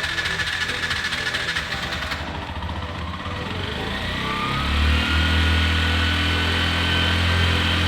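Bajaj three-wheeler's carburetted petrol engine running just after being started, following a clutch plate replacement, carburettor clean and new spark plugs. About halfway through a deeper, steady engine note sets in and holds.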